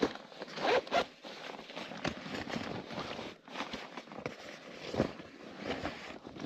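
A zipper being drawn in a series of short rasping pulls, loudest in the first second and again about five seconds in.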